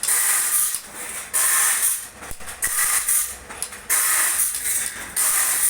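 Repeated harsh rasping bursts of metal being ground, about one every second and a bit: sharpening or sanding work on a bandsaw blade.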